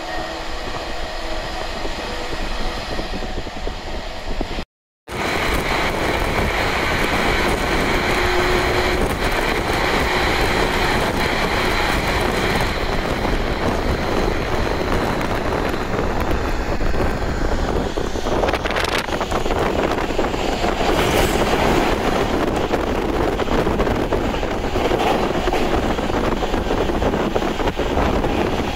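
A JNR 185 series electric train running at speed: steady rumble of wheels on rail with motor and running noise, heard on board. The sound drops out briefly about five seconds in and comes back slightly louder.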